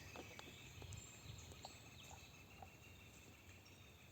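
Near silence: quiet outdoor background with faint bird calls.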